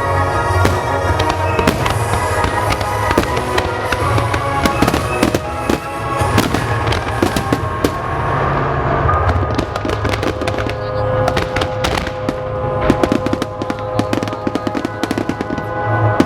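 Fireworks bursting and crackling over loud accompanying music. The pops and bangs come thick and fast, turning into a dense rapid crackle about two-thirds of the way through.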